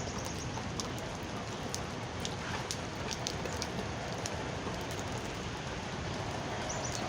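Steady rain falling, with scattered individual drops ticking sharply on a hard surface.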